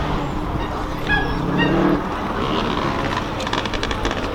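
A car engine running after a rev, its note rising a little before easing off about two seconds in, with a few short high squeaks just over a second in and rapid crackling clicks near the end.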